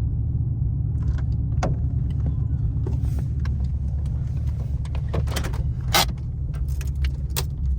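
Straight-piped Pontiac G8 GT V8 exhaust running at low revs, a steady deep rumble, with several short sharp clicks over it, the loudest about six seconds in.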